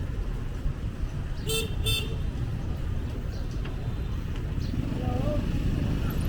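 Street traffic with a steady low rumble. About a second and a half in, a vehicle horn gives two short beeps in quick succession.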